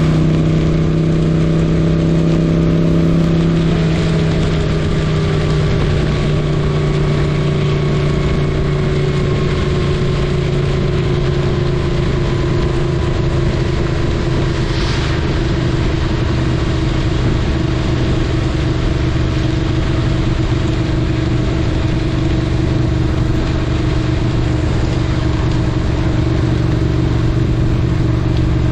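The air-cooled V-twin of a 1978 Moto Guzzi 850 Le Mans running under way, with a steady rush of wind and road noise. The engine note drops a few seconds in and then keeps easing slowly lower.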